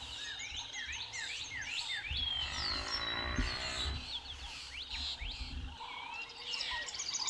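Many short chirping bird calls with a steady high insect-like tone behind them. About two seconds in, a low, wavering drawn-out animal call lasts for roughly two seconds.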